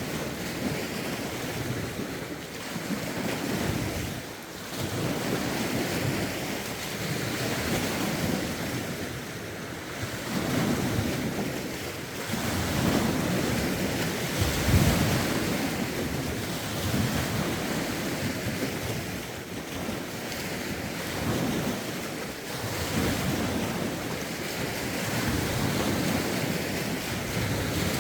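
Lake waves washing onto the shore in a rough wind, swelling and falling back every couple of seconds, with wind buffeting the phone's microphone. The loudest surge comes about halfway through.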